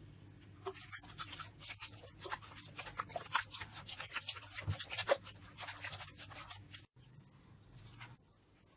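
Slime being squeezed and pressed by hand, giving a dense run of fast crackling and popping clicks that stops abruptly near the end, followed by fainter scattered clicks.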